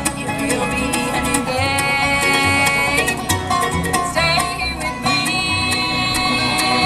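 Bluegrass band playing: rolling banjo picking over guitar and bass, with long held melody notes coming in about a second and a half in and again near the end.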